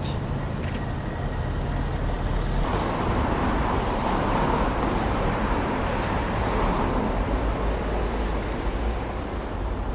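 Street traffic noise: a steady low rumble, with a vehicle passing close by that swells from about three seconds in and fades away near the end.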